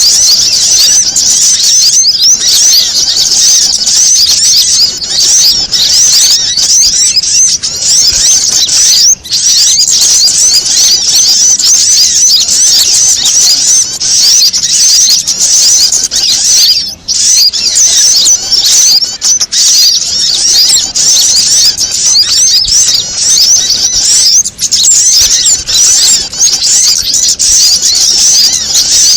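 Bird-lure recording of small birds calling agitatedly: prinia and sunbird calls layered into a dense, loud, unbroken mass of high chirps and twitters, with only a couple of brief dips.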